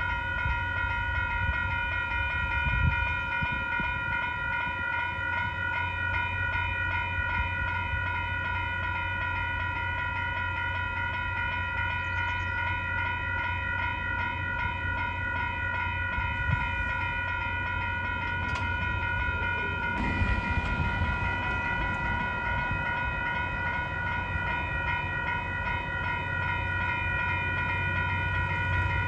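Railroad grade-crossing bell ringing steadily over the low rumble of a passing train, with a brief rise in rail noise about two-thirds of the way through.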